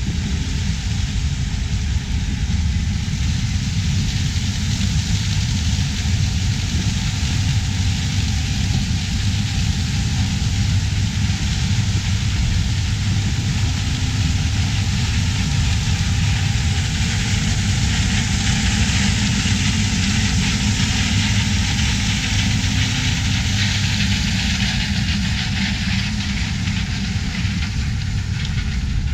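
Heavy diesel harvest machinery running steadily in a corn field: a low engine rumble under a broad hiss that grows somewhat louder past the middle.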